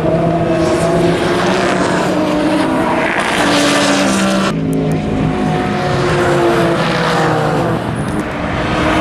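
Race car engines at high revs accelerating out of a corner. The engine pitch climbs in steps, with a sharp change about four and a half seconds in, and it falls away near the end.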